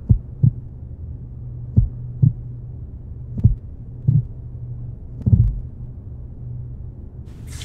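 Heartbeat sound effect: four slow double thumps, about one every 1.7 seconds, over a steady low hum.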